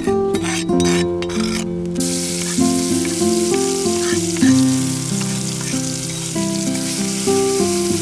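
Food frying in a hot pan: a steady sizzle that starts suddenly about two seconds in, over background music with a stepping melody.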